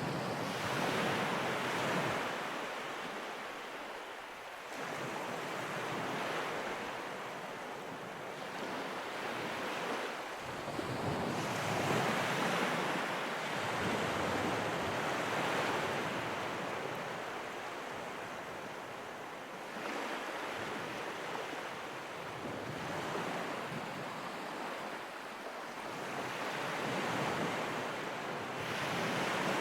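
Ocean surf: waves washing in as a steady hiss that swells and fades in slow surges several seconds apart.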